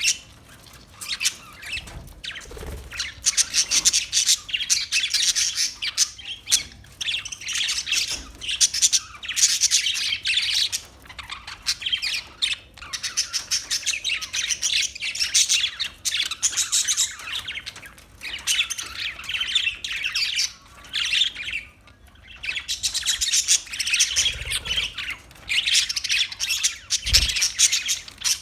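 Parakeets chattering and squawking in dense, rapid bursts of a few seconds each, with short lulls between them. A few soft low thumps sound under the calls.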